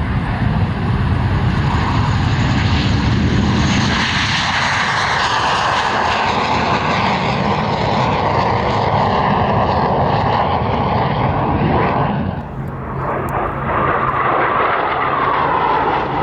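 CAC CA-27 Sabre's Rolls-Royce Avon turbojet running loud as the jet passes. It dips briefly about twelve seconds in, then builds again on a second pass.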